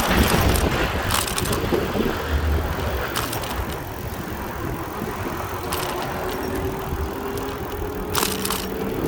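Bicycle being ridden, with uneven low rumble and scattered sharp clicks and rattles; a faint steady hum comes in about halfway through.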